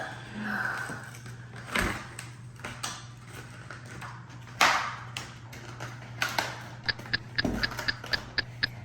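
Toy monster truck being worked out of its plastic retail packaging: scattered knocks and rustles, the loudest about four and a half seconds in. About seven seconds in, a rapid series of short high beeps, about four a second, starts.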